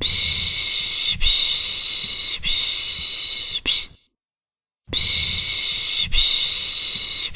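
A person shushing a baby, a steady 'pish-pish' hiss made of long shushes about a second each, run together. They break off for about a second near the middle, then start again.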